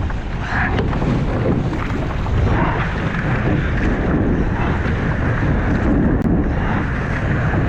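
Steady wind buffeting the microphone over the rush of sea water around a rowed surf boat.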